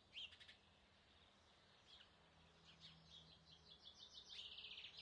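Faint forest birdsong: a few brief high chirps at the start, then a rapid trill of quickly repeated high notes that grows louder over the last two seconds.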